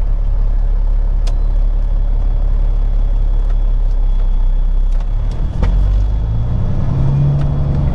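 Peterbilt 379 semi truck's diesel engine running at low speed, heard from inside the cab. About five seconds in the engine note shifts and grows stronger as it pulls, with a couple of faint clicks.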